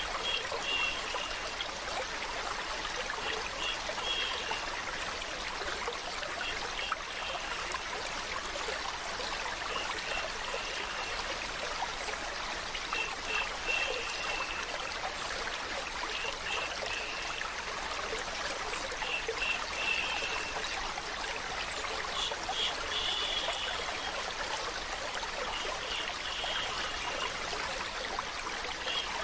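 Steady flowing water, a stream trickling, with short brighter trickling notes recurring every two or three seconds.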